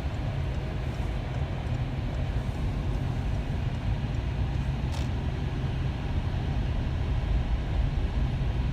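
Steady low rumble of a car driving, heard from inside the cabin, with one brief click about five seconds in.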